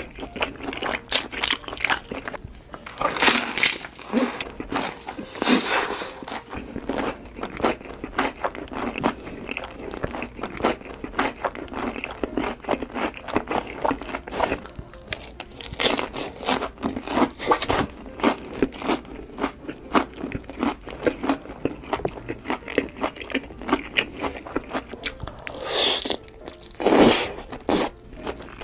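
Close-miked crunching and chewing of crispy fried chicken: crackly bites and mouth sounds come irregularly, with the loudest crunch near the end.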